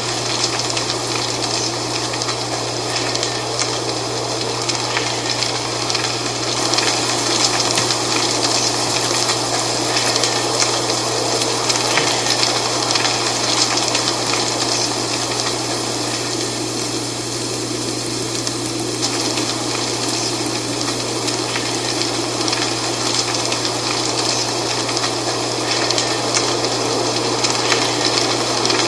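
Dry fall leaves rustling and crackling continuously in the wind, swelling and easing a little, over a steady low hum.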